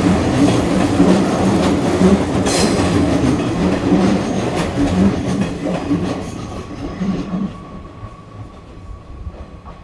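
Hanshin Railway electric train running along the platform, its wheels clacking rhythmically over rail joints, with a brief high hiss about two and a half seconds in. The train moves away and its sound fades over the last few seconds, leaving a faint steady tone.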